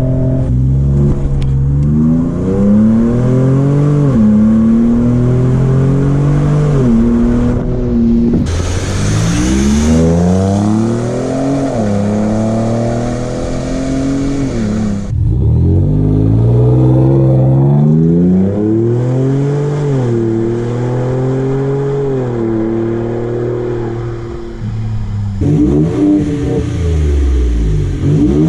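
2019 Ford Raptor's twin-turbo 3.5-litre EcoBoost V6 breathing through a Magnaflow MF Series cat-back exhaust, revving and pulling away in several short clips, the pitch climbing and dropping again and again.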